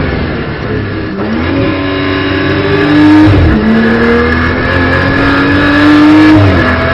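BMW M240i Racing Cup's turbocharged straight-six accelerating hard, heard from the cockpit: the engine pitch climbs, drops sharply with an upshift a little over three seconds in, climbs again and drops with a second upshift near the end.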